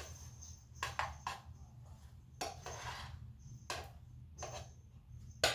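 Kitchen utensils knocking and clinking against dishes and pans, a handful of separate knocks with a longer scraping sound about two and a half seconds in, over a steady low hum.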